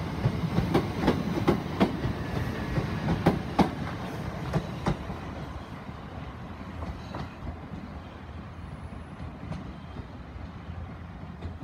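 Southern Class 377 Electrostar electric train departing and pulling away, its wheels clicking rapidly over the rail joints and pointwork. The clicks thin out after about five seconds and the rumble fades as the train draws away.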